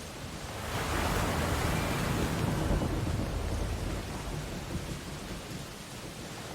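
A sea wave breaking on a beach: the rush of surf swells about a second in, then washes out and fades back to a steady hiss of distant surf.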